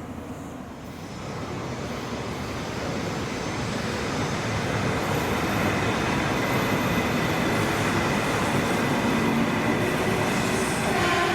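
Shinkansen bullet train approaching along the line, its rushing running noise building over the first few seconds and then holding loud and steady, with a few faint steady whining tones near the end.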